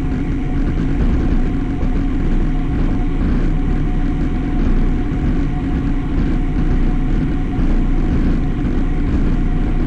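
Steady rush of wind and road noise on a camera riding on a moving road bike, with no break or change.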